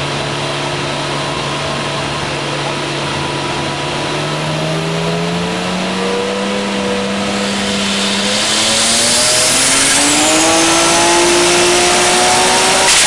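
Twin-turbo Toyota Supra straight-six under load on a chassis dyno. It holds a steady note for about four seconds, then revs up in a long, steady climb in pitch through the rest of the pull, with a loud hiss building from about eight seconds in. The sound drops sharply at the very end.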